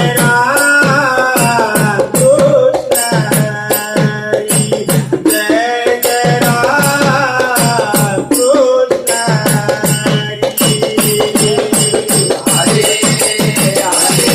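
Bhajan group's devotional music: a melody line over steady hand-drum beats and jingling percussion.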